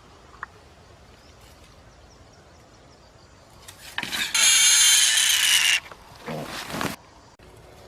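A pig squealing loudly for about a second and a half, then a shorter, lower cry.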